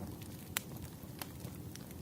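Burning firewood crackling, with sharp pops about half a second and a little over a second in over a low steady rumble of the fire.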